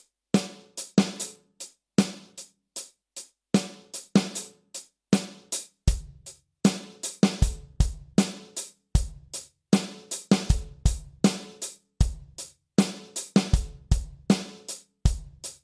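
Drum kit playing a steady rock groove on hi-hat and snare, with an extra snare stroke between the beats; bass drum hits join in about six seconds in.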